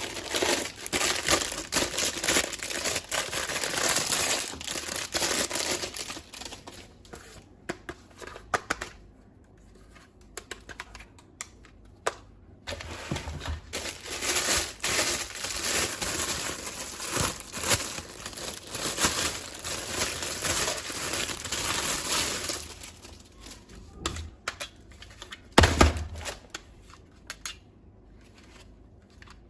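Plastic packaging crinkling and tearing while a toy is unboxed, in two long stretches, followed by scattered clicks and a single thud near the end.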